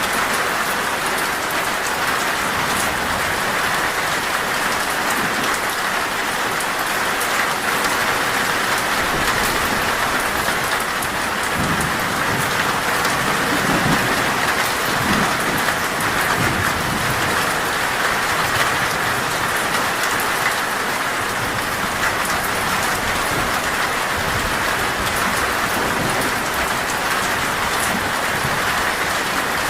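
Heavy rain drumming steadily on a metal roof, with a low rumble of thunder rolling through about halfway in.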